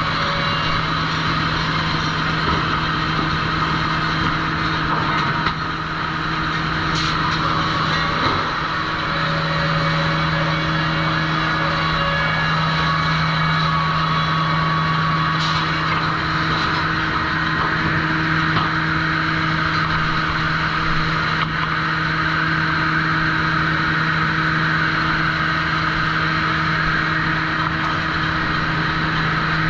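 Sawmill trim saw line machinery running steadily, with a constant low hum and a few faint clicks.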